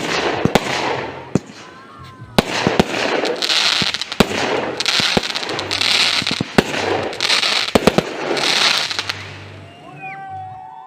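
A rapid, irregular series of sharp pops and cracks over swelling hiss, with a few short whistling glides near the end.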